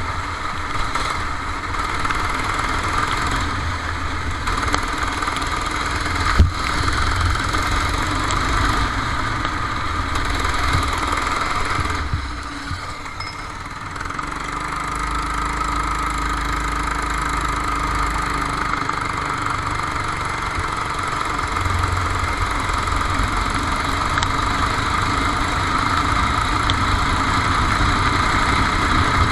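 Racing kart engine heard onboard, running steadily under power. It eases off for a couple of seconds about twelve seconds in, then picks up again. A single sharp knock comes about six seconds in.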